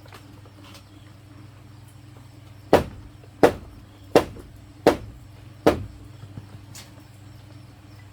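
Five sharp blows of a tool striking bamboo, evenly spaced about two-thirds of a second apart, over a steady low background hum.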